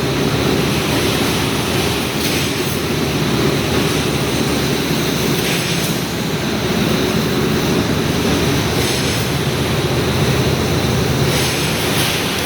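Rebar mesh welding machine line running: a loud, steady mechanical rumble and clatter, with a few brief higher-pitched hisses now and then.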